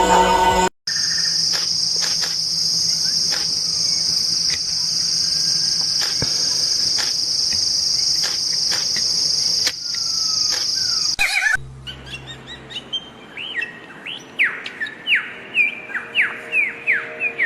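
A steady, unbroken high-pitched buzzing trill lasting about ten seconds. After a short break, a songbird sings a series of quick downward-sliding whistled notes, about two a second.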